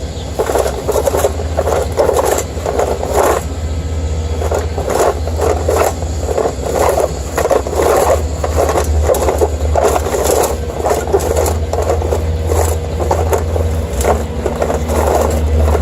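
Bissell Sweep Up manual carpet sweeper pushed back and forth over grass, its brush roll scraping and rustling in repeated strokes about once or twice a second. A steady low drone of construction machinery runs underneath.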